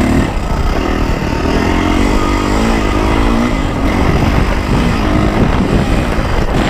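Yamaha YZ450F's single-cylinder four-stroke engine running on a dirt-bike trail ride, its pitch rising and falling as the throttle is opened and closed, over a steady low rumble.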